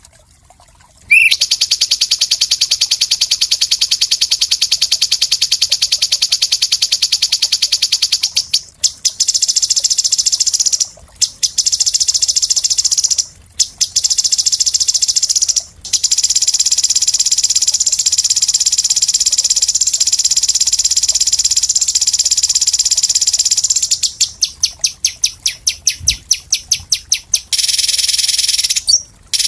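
A songbird on a bird-training recording singing long, very fast, high trills. The trills start about a second in and last several seconds each, with short breaks. Near the end they break into quicker choppy bursts before one more steady trill.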